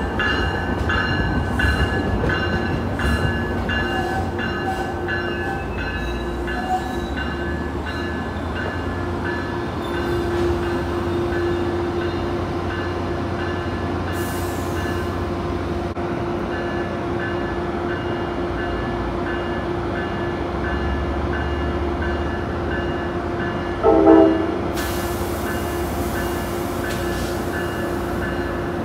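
Tri-Rail bilevel commuter train rolling through the station with a steady hum and rapid wheel clicks over the first several seconds. A short, loud horn blast sounds near the end.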